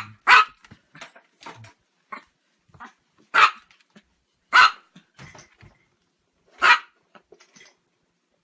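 A dog barking: two quick sharp barks at the start, then single loud barks spaced a second or two apart, with softer short sounds between them.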